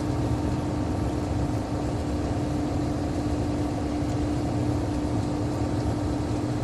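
Inside the cab of a loaded semi-truck coasting downhill off the brake: the diesel engine runs steadily at light load under a constant hum and road noise.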